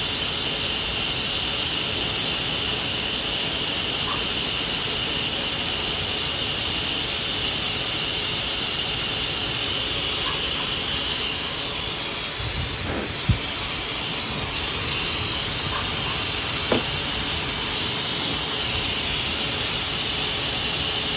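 Pet grooming blow dryer running steadily with a strong airy hiss, dipping briefly in the middle. Two sharp knocks can be heard in the second half.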